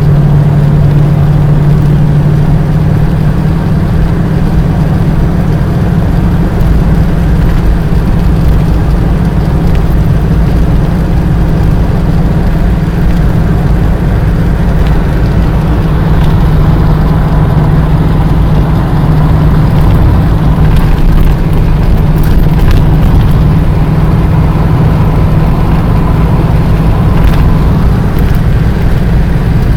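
A motor vehicle's engine running at a steady pitch over a constant low rumble.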